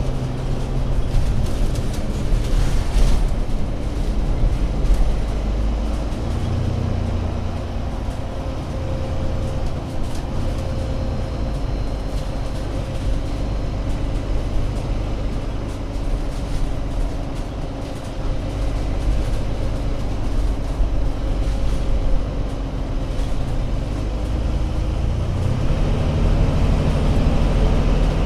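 Diesel engine of an Alexander Dennis Enviro500 MMC Euro 6 double-deck bus running under way, a deep continuous drone whose pitch and load shift as the bus drives. It grows louder a few seconds in, eases off about two-thirds through, and builds again near the end.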